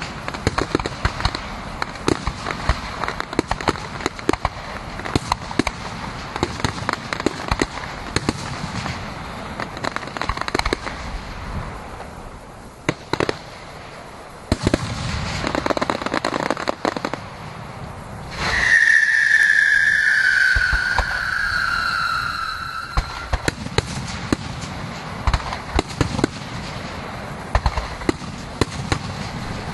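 Fireworks display: rapid crackling and popping bangs go on throughout, thinning briefly to a lull a little before the middle. A little past the middle, a loud whistle sounds for about four seconds, sliding slowly down in pitch.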